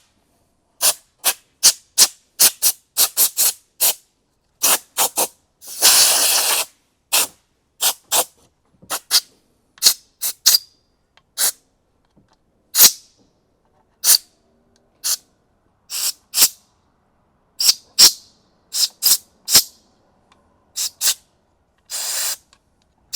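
Compressed-air blow gun fired in dozens of short hissing puffs, with longer blasts about six seconds in and near the end, blowing aluminum shavings out of freshly tapped bolt holes in a valve cover.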